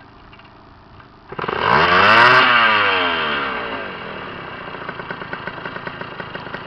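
Tuned 65cc Honda MT5 single-cylinder two-stroke engine firing up about a second and a half in. It revs up sharply, drops back over a couple of seconds and settles into a steady idle.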